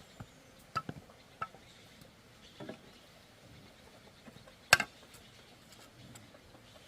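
Scattered light knocks and clicks of bamboo being handled, with one sharper click about two-thirds of the way through.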